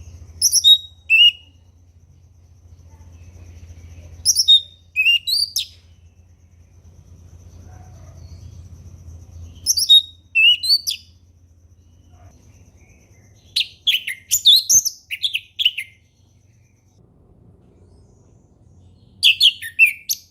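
Orange-headed thrush (anis merah) singing in the ngeplong style: five short phrases of quick, falling whistled notes, about every four to five seconds.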